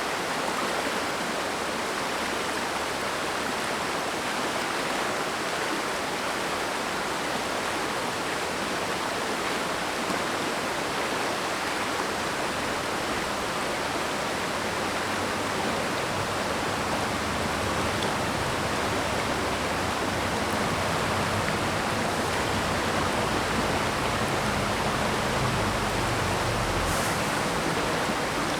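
Mountain stream water rushing and splashing over rocks, a steady even rush, with a deeper low rumble of the flow growing in the second half.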